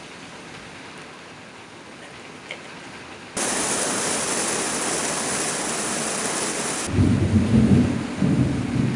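Rain falling, which turns abruptly much louder about a third of the way in. Near the end, loud thunder rumbles in uneven rolling waves.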